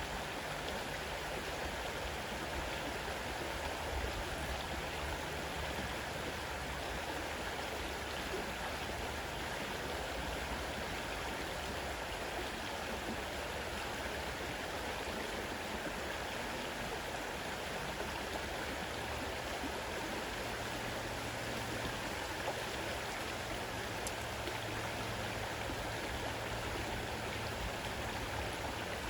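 River water running fast, a steady, even rushing with no breaks.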